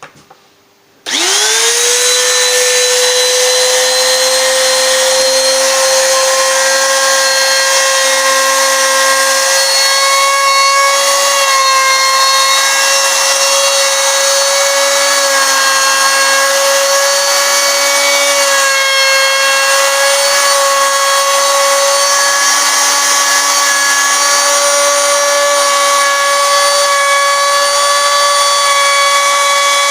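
Router fitted with a small round-over bit, switched on about a second in, its motor spinning up with a rising whine and then running at a steady high speed as it cuts a rounded edge along a wooden guitar body.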